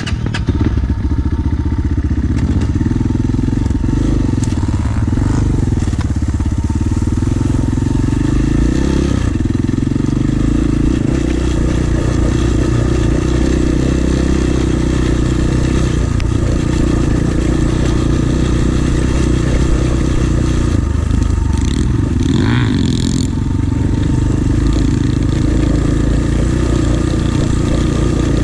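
Pit bike engine running steadily while riding.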